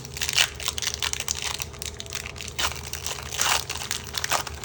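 Foil booster pack wrapper crinkling and crackling as it is handled, in a quick run of irregular crackles.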